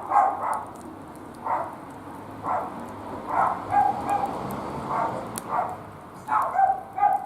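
A dog giving short yips and barks, about one a second, over the faint crackle of a wood fire.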